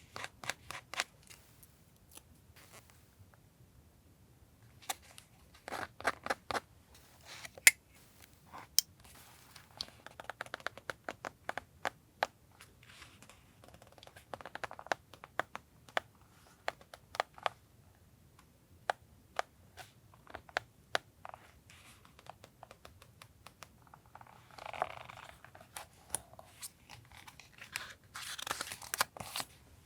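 Paper collage work at a desk: a scattering of sharp snips and clicks from scissors and paper being handled, with paper rustling and rubbing twice near the end.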